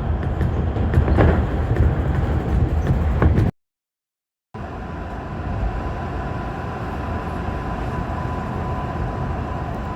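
Tobu Tojo Line commuter train running, a loud rumble with clicks from the rails. About three and a half seconds in it cuts to a second of silence, then comes back quieter and steady, with a thin steady high tone.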